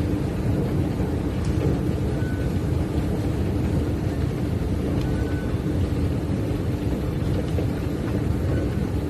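Steady low rumble with a constant hum underneath. A faint short high tone comes through about three times.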